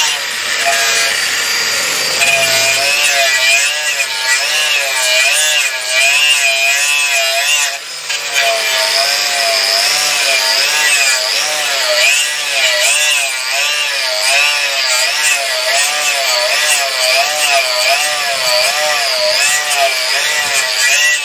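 Handheld electric power tool running steadily under load. Its motor pitch wavers up and down about twice a second, and it dips briefly about eight seconds in.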